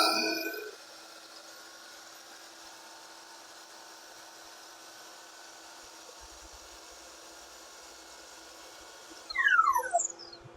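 Ridgid miter saw's motor winding down right after a test cut, dying away within the first second. A faint steady hum follows, and about nine seconds in there is a brief loud sound of several tones falling in pitch.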